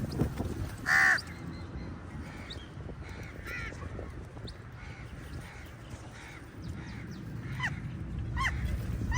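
A flock of crows cawing, with one loud close caw about a second in and many overlapping calls after it, a few short falling calls near the end.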